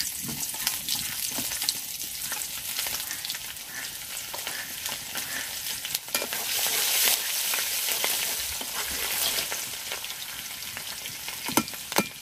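Sliced onion and garlic sizzling and crackling in hot mustard oil in a karai, stirred with a spatula. Two sharp knocks near the end.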